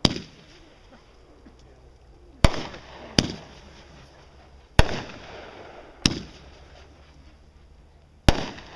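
Fireworks going off: six sharp bangs at uneven intervals, each trailing off in a rumbling echo.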